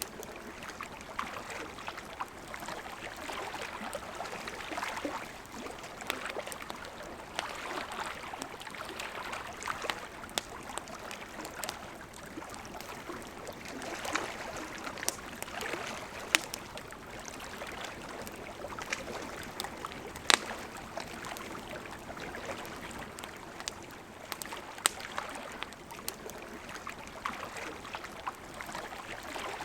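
Campfire crackling with frequent sharp pops, one louder snap about twenty seconds in, over the steady rush of a flowing river.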